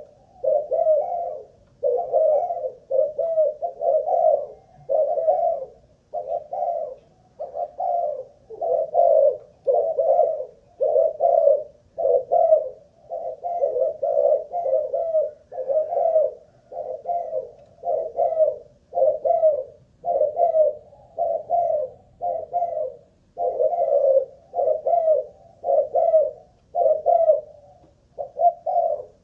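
Spotted dove cooing on and on, its short coo notes following one another almost without a break, about one and a half a second.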